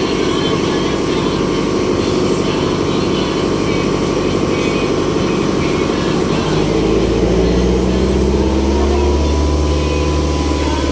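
Ferry boat engine running steadily, heard on board. About two-thirds of the way through, its note shifts lower and grows slightly louder, and a thin high whine rises near the end.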